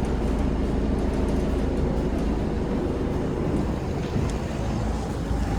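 Diesel engine of a Mitsubishi Fuso FE130 box truck idling steadily: a low, even hum with a rushing haze over it.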